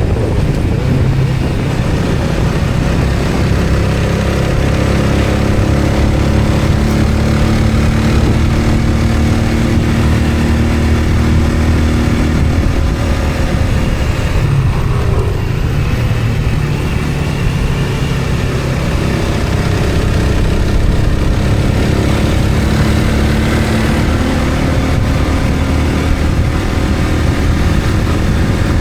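A vehicle's engine and road noise running steadily while moving, the engine pitch rising and falling gently with speed changes.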